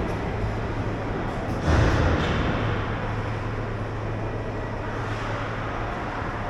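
Ice hockey arena ambience: a steady wash of noise over a low hum, with a sudden louder thud about two seconds in.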